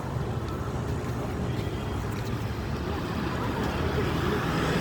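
A vehicle's engine running with road and wind noise while travelling, growing a little louder near the end.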